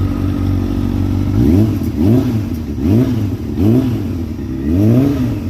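Motorcycle engine idling, then blipped five times in quick succession from about a second and a half in, each rev rising and dropping back to idle. The engine is freshly started and still cold.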